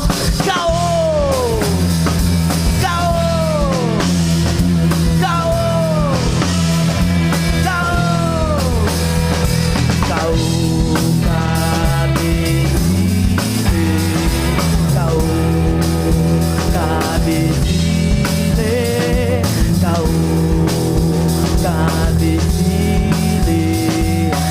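Live rock band playing an instrumental passage: electric guitars, bass and drum kit. For the first nine seconds or so a lead line repeats long falling slides about every two seconds, then gives way to steadier held notes over the bass and drums.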